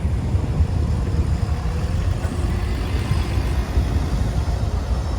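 A bus's diesel engine running close by, a steady deep rumble.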